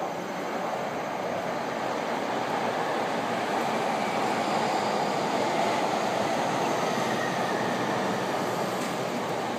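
Electric commuter train running past on the tracks, a steady rumble and rush of wheels on rail that swells toward the middle and eases near the end.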